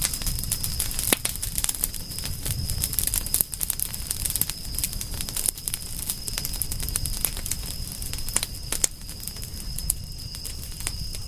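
Wood fire crackling: irregular sharp pops and snaps over a low rumble of flames, with a steady high-pitched tone underneath.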